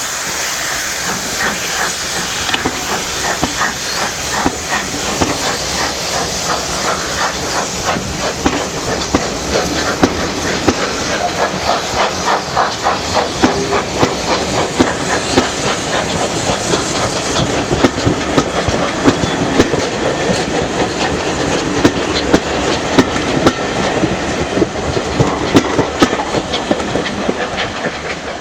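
Steam train running along the line: a steady hiss of steam with a rapid, rhythmic clicking and clattering of wheels over the rails.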